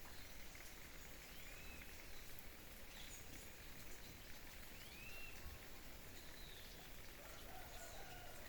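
Faint birds calling: a few short, high sliding chirps, then a lower falling call near the end, over a steady background hiss.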